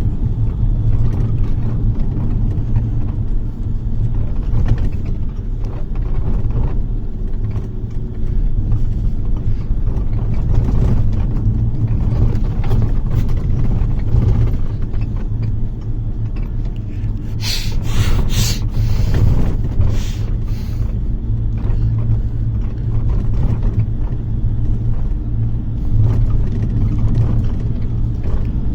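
Steady low rumble of a bus's engine and road noise heard from inside the moving bus. About two-thirds of the way through comes a short cluster of sharp clicks or rattles.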